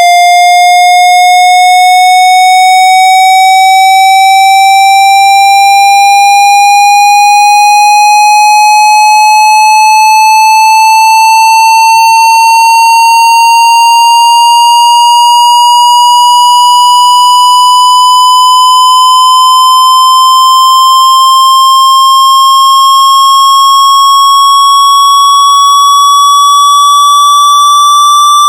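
Loud synthesized water-eject tone for clearing water from a phone speaker: one steady electronic tone with a buzzy edge, gliding slowly and evenly upward in pitch.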